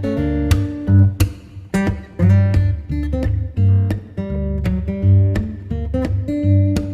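Background music of plucked and strummed acoustic guitar, notes struck about every half second over a deep bass.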